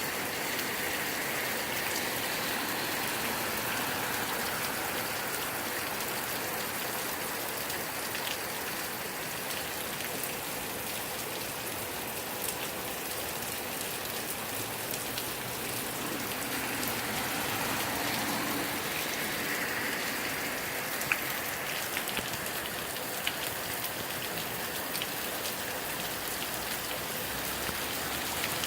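Heavy rain falling steadily: a dense, even hiss of rain on surfaces, dotted with sharper individual drop ticks, one louder tick a little past two-thirds of the way in.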